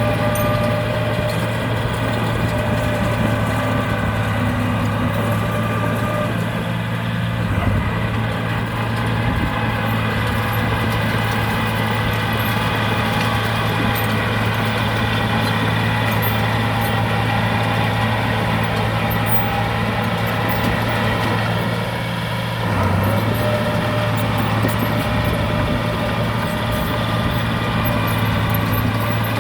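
Heavy diesel engine of earth-moving machinery running steadily with a deep hum, dipping briefly twice, about eight and twenty-two seconds in.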